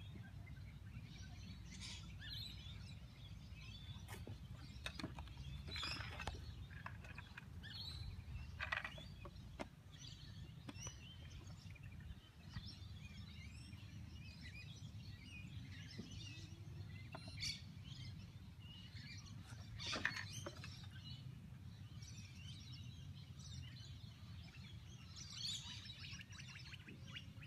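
Outdoor ambience: scattered bird chirps over a steady low background rumble, with a few short sharp clicks, the loudest about nine and twenty seconds in.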